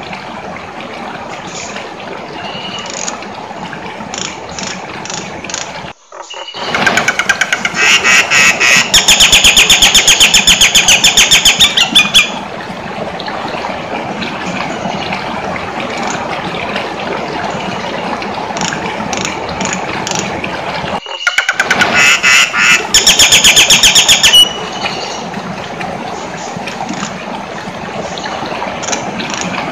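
Jalak nias, an Indonesian starling-family songbird, calling in loud, rapid rattling runs of notes: a long run a quarter of the way in and a shorter one past two-thirds, with scattered shorter chirps between them over a steady noisy background.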